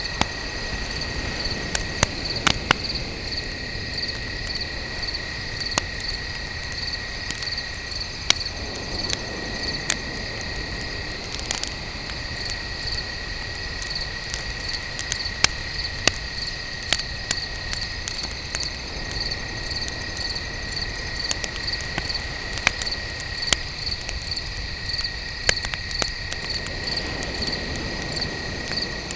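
Campfire crackling, with sharp irregular pops throughout, over a steady chorus of crickets chirping in a fast even pulse.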